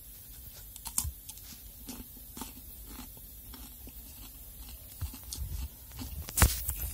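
Biting into and chewing a crisp lightly salted pickled cucumber close to the microphone: scattered short crunches. A loud knock comes near the end.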